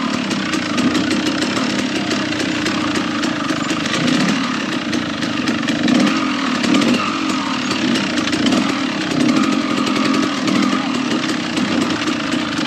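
Dirt bike engine running hard while riding, the revs rising and falling continuously.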